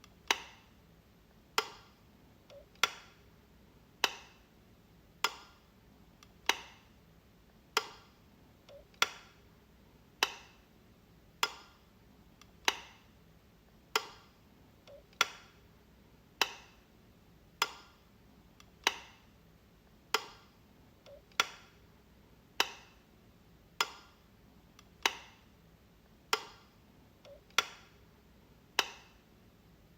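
Light switch flicked over and over: a sharp single click about every second and a quarter, at an even pace.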